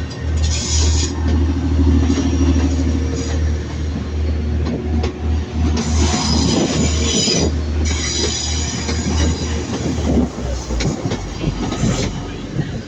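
A train moving slowly over the tracks, its wheels squealing in high tones several times and clicking over the rail joints, with a steady low hum underneath.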